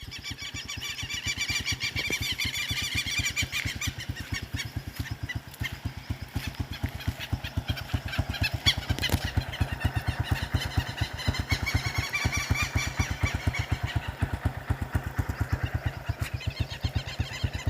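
A small engine running steadily with a rapid, even low pulse, with a fainter high, wavering sound over it.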